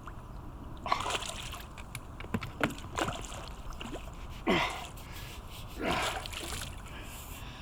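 A large carp splashing hard at the water's surface as it is brought to the landing net at the end of the fight: several separate splashes, the loudest about halfway through and again near six seconds.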